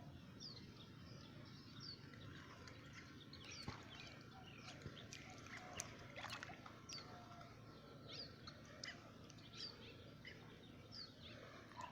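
Faint outdoor quiet with scattered short, high chirps of small wild birds, several a second at times, and a few faint clicks.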